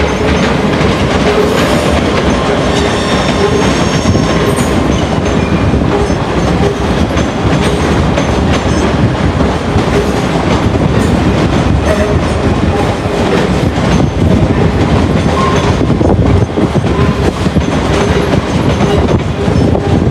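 A train running through the station at close range: a steady loud rumble with wheels clattering over rail joints. Faint high squeals from the wheels come in a few seconds in.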